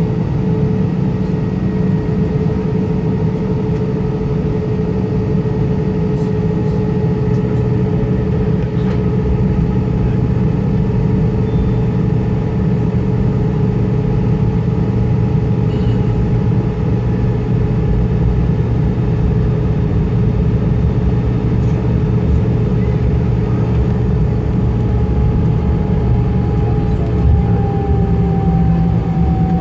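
Airbus A320-214's CFM56 jet engines running steadily under power, heard from inside the passenger cabin as a deep rumble with a steady whine over it. The whine dips slightly in pitch near the end.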